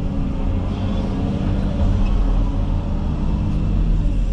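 Komatsu 360 excavator's diesel engine running steadily, a continuous low hum.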